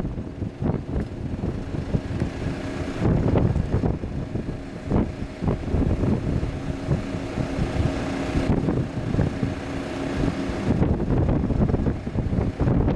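Jetstar Airbus A320's jet engines on arrival: a steady engine hum with a rushing noise that swells about three seconds in and drops away near the end, under heavy wind buffeting on the microphone.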